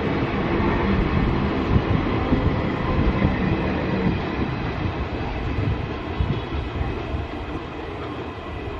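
Passenger train coaches rolling past at close range, the wheels on the rails making a steady heavy rumble with a few sharp clacks. The sound slowly eases in the second half as the last coaches go by.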